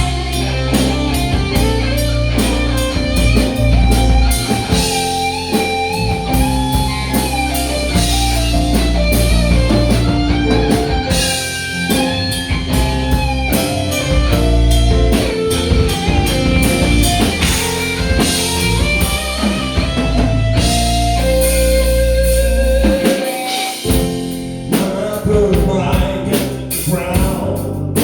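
Rock band playing an instrumental passage: guitar melody lines over bass and drum kit.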